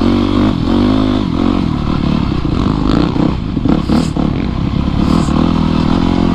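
Dirt bike engine running under way, its pitch rising and falling as the rider works the throttle, with brief clattering and scraping about three to five seconds in.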